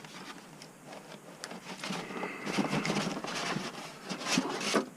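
Packaging being handled as a 3D printer is unboxed: rustling and scraping with a few light knocks, picking up about two seconds in.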